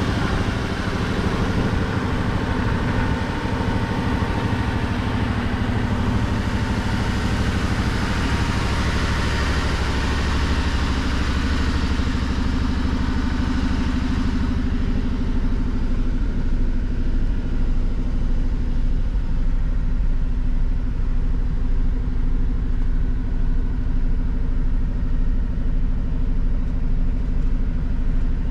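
A 1985 Mercedes-Benz 380SL's 3.8-litre V8 idles steadily shortly after a cold start. About halfway through, the higher hissing part of the sound falls away, leaving a deeper exhaust rumble with a slight regular pulse.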